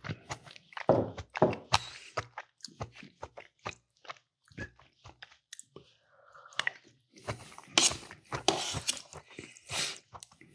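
A person chewing food close to the microphone: irregular wet chewing and crunching bites with mouth clicks, busier and louder from about two-thirds of the way in.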